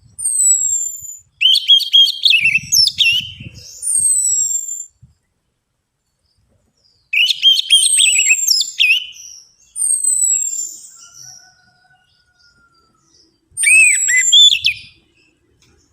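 Orange-headed thrush (anis merah) singing: three bursts of fast, varied song with high falling whistles, the second about seven seconds in and the last near the end.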